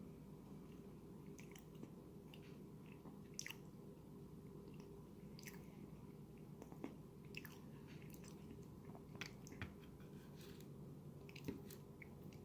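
Faint chewing of a mouthful of cheddar cheese potato bake with a breadcrumb topping: soft, irregular mouth clicks over a low, steady hum.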